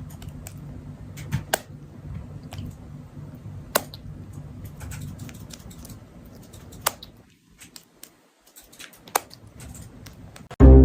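Scattered sharp clicks and taps over a low steady hum, with a brief lull about three-quarters of the way in; music starts right at the end.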